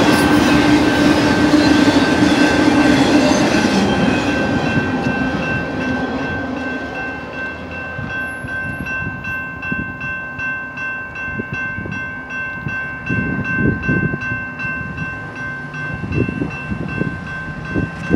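Tail end of an intermodal freight train rolling past with clattering wheels, fading away over the first several seconds, while the grade-crossing warning bell keeps ringing steadily. Gusts of wind buffet the microphone near the end.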